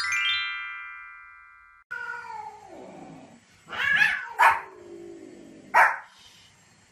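A rising chime glissando rings out and fades. Then a dog yowls and whines in falling, sliding tones, with two short sharp barks in the second half.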